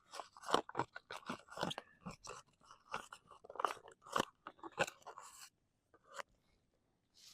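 Spoon stirring freeze-dried tomatillo salsa that has just had water added, a quick irregular crunchy scraping that stops about five seconds in, followed by a couple of faint taps.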